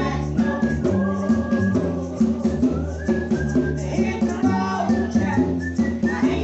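Live gospel band music: sustained instrument notes over a steady, evenly spaced beat.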